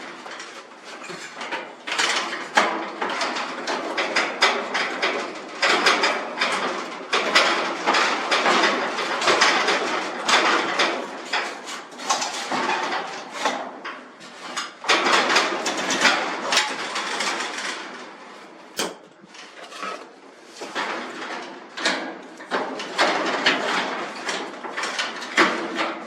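Garage door rollers being swapped by hand: repeated metal clanks, knocks and scraping of roller stems, hinge brackets and the steel track, in irregular bursts.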